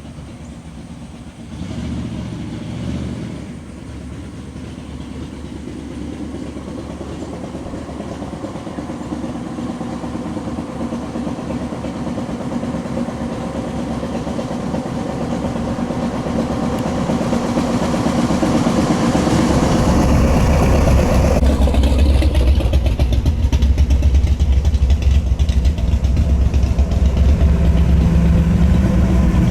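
A car engine grows steadily louder over about twenty seconds as it comes closer, then runs loud and steady with a deep low rumble.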